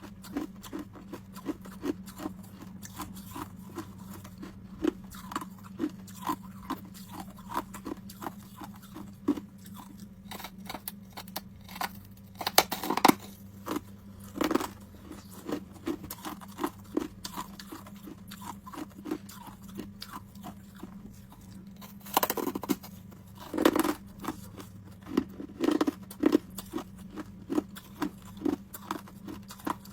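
Homemade ice cubes being bitten and chewed close to the microphone: a regular run of short crisp crunches, about two to three a second, with a few louder, longer bites, the loudest a third of the way in and a few past two-thirds. A steady low hum runs underneath.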